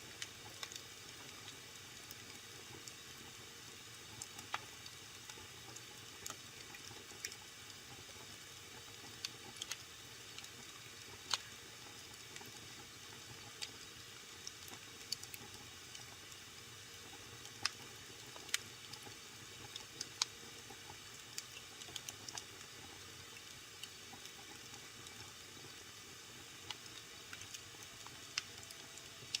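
Wood fire burning in a fireplace: a soft steady hiss with irregular crackles and pops scattered throughout, a few of them sharper and louder.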